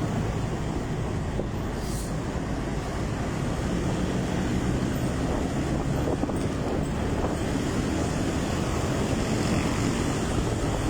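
Motorcycle running steadily on the road, a low rumble mixed with wind buffeting the microphone.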